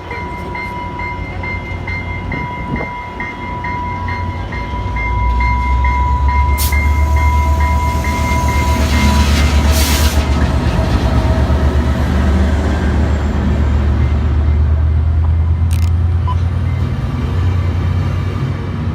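A train runs close by, its heavy low engine rumble swelling about five seconds in and holding. A steady high tone and a rapid pulsing ring fade out around eight seconds in, and there is a short hiss around ten seconds in.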